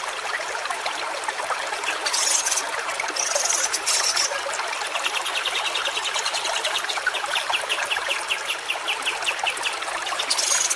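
A stream trickling and running steadily. Brief high hissing bursts come a few times, and from about halfway a fast, even run of short high notes is heard over the water.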